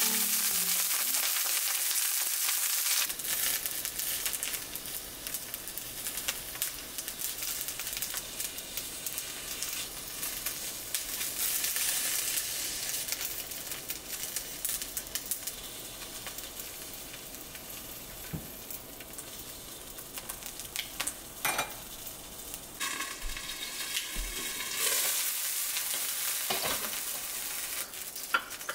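Halved Brussels sprouts searing in hot oil in a cast-iron skillet at high heat: a steady sizzle with scattered crackles. It is loud at first and gradually eases, with some stirring noise as the sprouts are turned with tongs.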